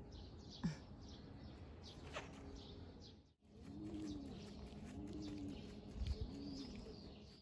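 Faint outdoor bird calls: a few thin high chirps, then three low calls, each rising and falling in pitch.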